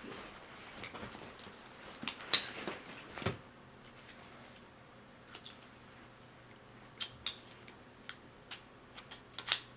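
A new six-point racing harness being handled: scattered sharp clicks and small clinks of its metal hardware, a few close together about two to three seconds in and more near the end.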